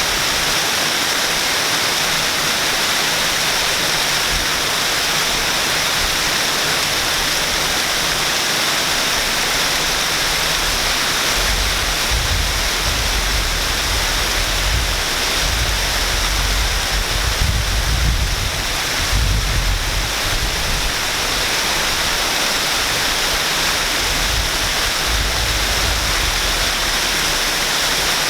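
Waterfall: a steady, full rush of falling water. A low rumble comes and goes through the second half.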